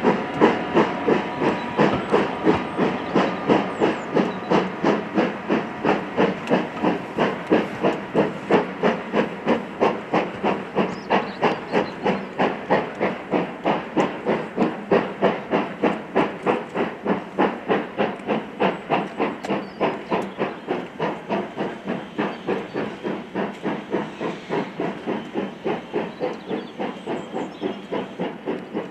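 Steam locomotive working a train, its exhaust chuffing in a fast, even beat of about four a second, slowly fading as it draws away.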